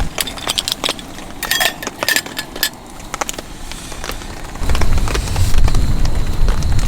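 Scattered clicks and a few light clinks of camping gear being handled. About two-thirds of the way through, strong gusting wind suddenly buffets the microphone with a heavy rumble.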